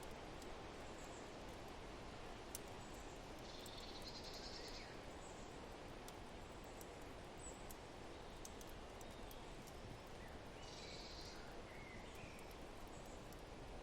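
Faint nature ambience: a steady low rush of wind under a crackling wood fire that gives scattered sharp pops. Birds chirp briefly twice, a few seconds in and again about eleven seconds in.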